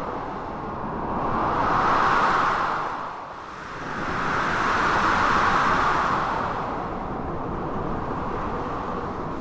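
Storm ambience of blizzard wind and crashing sea surf: a continuous rushing noise that swells twice, loudest about two and five seconds in, with a brief lull between.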